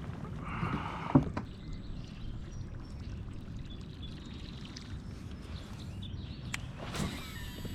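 Water splashing and lapping around a fishing kayak over a steady low rumble, with a sharp knock on the hull or gear just over a second in and another short splash near the end.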